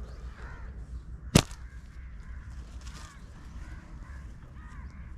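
Birds calling over and over, short up-and-down calls. A single sharp snap cuts through about a second and a half in.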